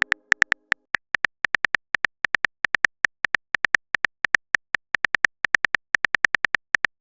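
Keyboard typing sound effect: a rapid, unevenly spaced run of short, crisp clicks, several a second.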